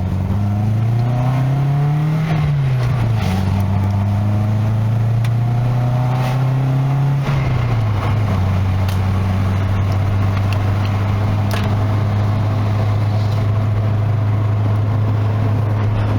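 Classic Nissan's engine and exhaust heard while driving: the engine note rises, drops sharply about two seconds in, holds, drops again around seven seconds in, then holds steady as the car cruises. The exhaust is a near-open back box, and the downpipe leak is still blowing a little, by the owner's account.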